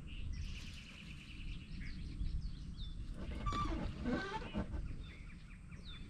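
Songbirds chirping and whistling in quick repeated notes, with a louder, lower call rising and falling in pitch around the middle, over a low background rumble.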